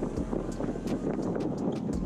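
Wind buffeting the camera microphone: an uneven low rumbling rush with scattered small clicks.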